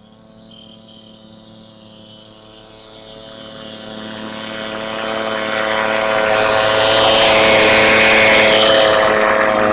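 Ariens snowblower engine running at a steady speed and growing louder as it comes closer, with a rushing hiss that swells along with it.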